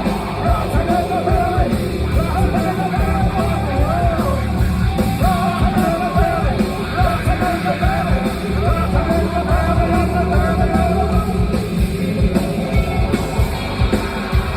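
Live heavy rock band playing loudly, with a sung, shouted vocal line over heavy bass and drums; the vocal stops about eleven seconds in while the band plays on.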